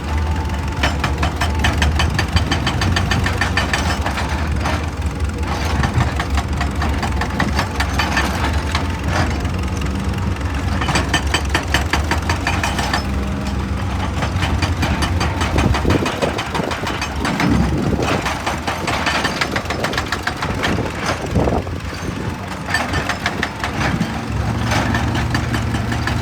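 Excavator's diesel engine running under work, with a fast, dense rattling clatter over it; the engine's low drone drops away about two-thirds of the way through and comes back near the end.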